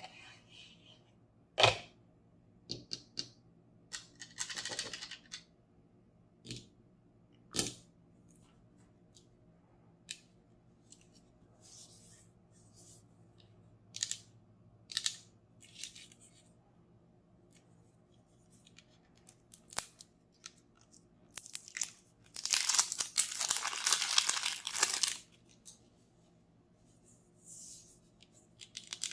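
Toy packaging handled by hand: scattered sharp taps and clicks with short rustles, then a loud tearing that lasts about three seconds as the packaging is ripped open.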